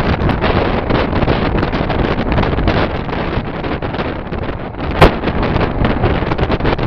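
Passenger train running on the rails, heard with heavy wind buffeting the microphone. One sharp, loud clack about five seconds in.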